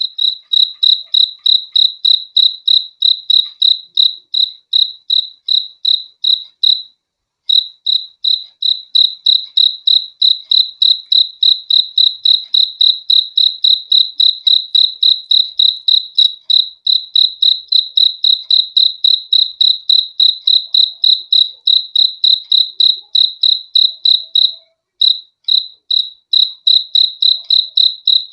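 A cricket chirping in a steady, rapid train of high pulses, about four a second, with one short break about seven seconds in.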